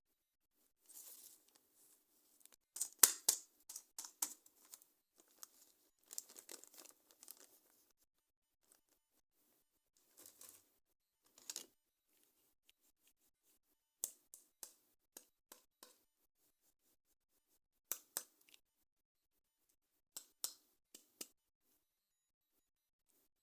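Toy packaging being opened by hand: bursts of tearing and crinkling, followed by a series of short sharp clicks and snaps spaced out over the later part.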